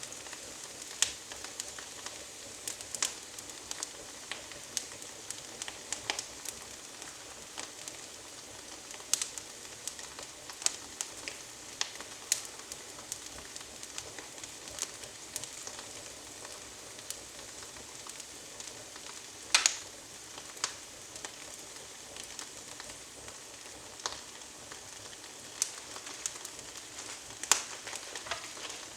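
Fireplace fire of small twigs burning: a steady hiss with scattered sharp crackles and pops, one loud pop about two-thirds of the way through.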